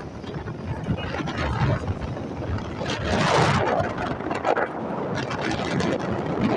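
Road travel noise with wind rushing and buffeting over the microphone in uneven gusts, swelling louder about three seconds in.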